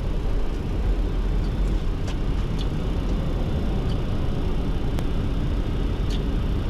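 Flight-deck noise of a Boeing 737-200 at takeoff thrust as it rotates off a gravel runway: the steady rush and rumble of its Pratt & Whitney JT8D engines and airflow, with a few faint ticks.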